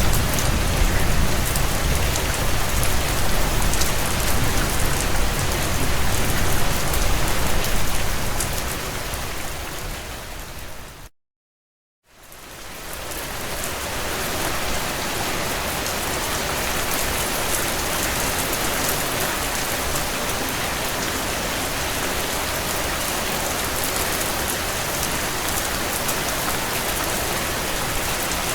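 Heavy rain falling on a tin roof, a dense steady hiss. It fades out about ten seconds in, cuts to a second of silence, and fades back in, with less low rumble after the break.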